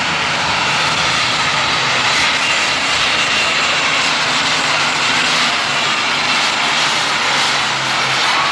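Turbocharged diesel engine of a super stock pulling tractor running flat out under load during a pull, a loud, steady, high-pitched blare.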